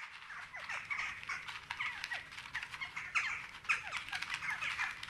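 A dense chorus of many overlapping short animal calls, each sliding downward in pitch.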